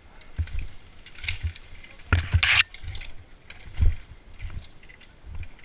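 Rustling, crackling and irregular low bumps as a player moves through dry bamboo undergrowth, with one louder rustling crash a little after two seconds in.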